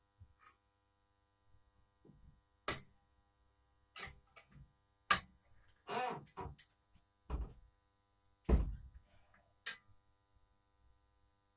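Irregular knocks and clunks of metal parts and tools being handled during an engine installation, about a dozen in all. The heaviest is a low thud about eight and a half seconds in, and one about six seconds in rings briefly with a short creak.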